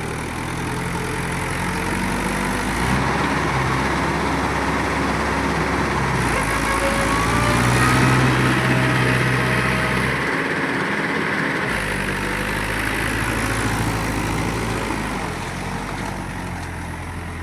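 Mahindra 585 tractor's diesel engine running steadily, growing louder toward the middle and easing off again near the end.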